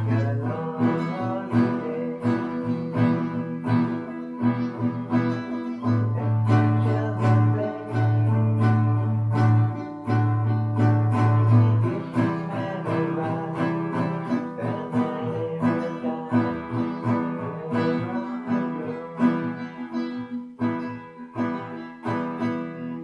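Acoustic guitar played: a quick run of plucked notes over a low bass note that rings on for seconds at a time.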